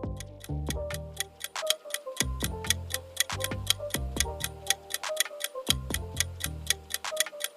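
Quiz countdown timer ticking evenly, about four ticks a second, over a background music track with low bass notes.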